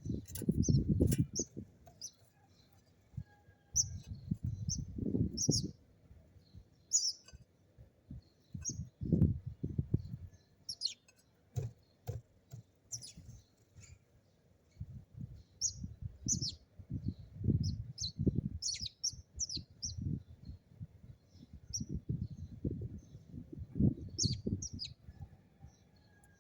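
Sparrows chirping, many short high chirps scattered throughout, over louder bursts of low rumbling noise that come and go every few seconds.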